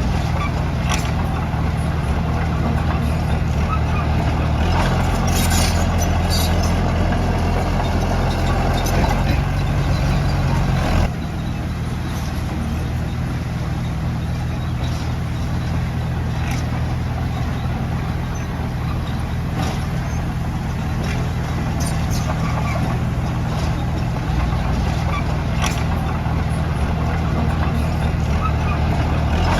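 Heavy diesel construction-machine engine running steadily under varying load: the drone grows louder about five seconds in, drops off suddenly around the middle, and picks up again near the end, with scattered short clicks and clanks over it.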